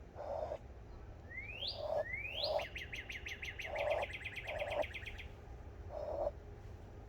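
Bird-call imitation with cupped hands: six short, low, hollow hoots, with two quick rising whistles and then a fast trill of about eight notes a second in the middle.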